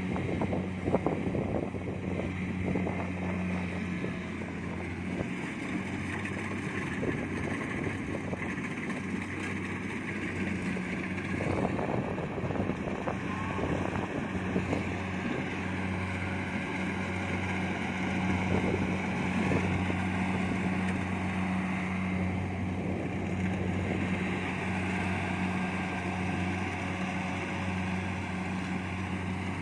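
Kubota DC70 Plus rice combine harvester running steadily, its diesel engine holding an even pitch.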